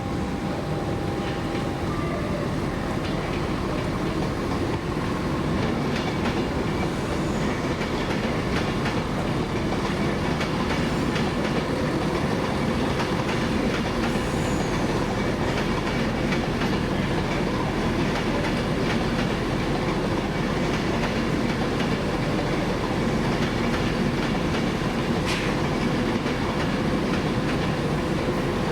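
A train running past on the rails, its wheels clattering steadily over the track.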